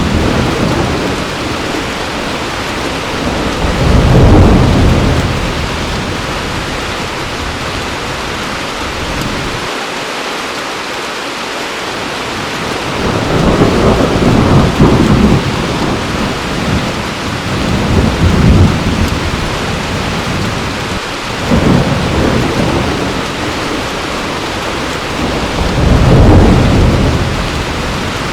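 Heavy rain falling steadily, with low rolls of thunder swelling and fading every few seconds; the strongest come about four seconds in, in the middle, and near the end.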